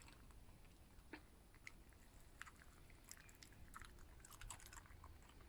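Faint scattered clicks and crunches of a fox chewing its food.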